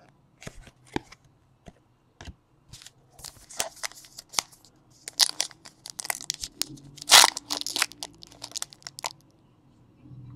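Trading card pack wrappers crinkling and tearing as packs are opened and cards handled, in irregular short crackles with the loudest tear about seven seconds in.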